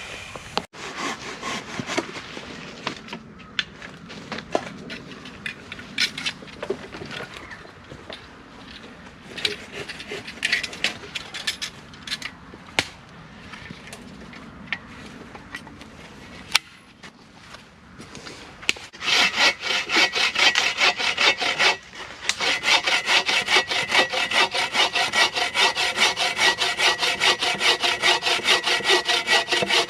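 A hand saw cutting wood: irregular knocks and scrapes at first, then steady back-and-forth sawing strokes, about two a second, that begin about two-thirds of the way in and grow loud.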